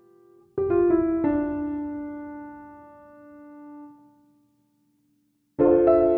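Background piano music: a chord built up note by note about half a second in, left to ring and fade away, then a brief complete silence before the piano comes back in near the end with a fuller run of notes.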